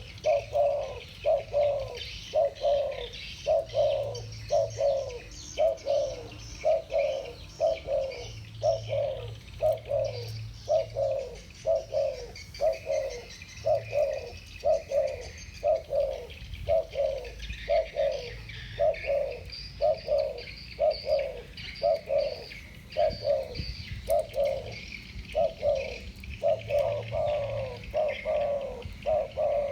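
Spotted doves cooing in a continuous, even run of low coo notes, about one and a half a second, in the deep 'thổ bầu' voice that Vietnamese dove keepers prize; two males singing back and forth. Small birds chirp faintly higher up behind them.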